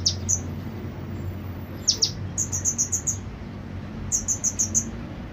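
Konin (kolibri ninja) sunbird singing: quick bursts of four or five very high, sharp chirps in rapid-fire runs, with a couple of short downward-sweeping notes between them, over a steady low hum.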